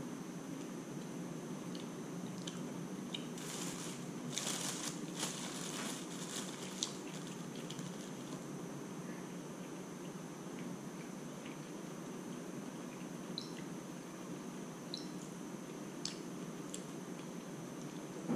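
Crackly crunching for about three seconds, starting about three and a half seconds in, as a fried insect is bitten and chewed, over a steady low hum and a faint high whine. A few faint clicks follow later.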